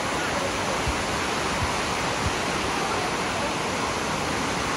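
Cascading water of Dunn's River Falls rushing in a loud, steady hiss.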